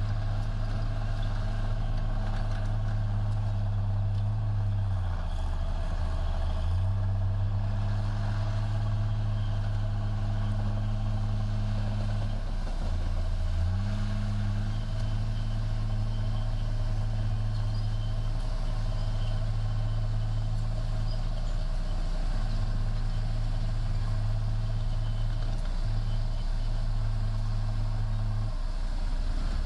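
Bulldozer's diesel engine running steadily, its pitch dipping briefly about five seconds in, again around twelve seconds, and near the end as the engine speed changes.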